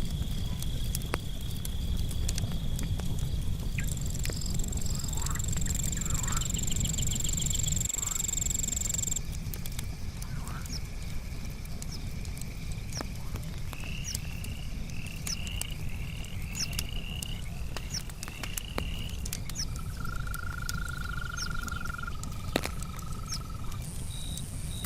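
Campfire crackling with scattered sharp pops, while frogs call and crickets trill steadily in the background. About nine seconds in, a high steady trill stops; a run of repeated chirps follows, and later a lower steady trill.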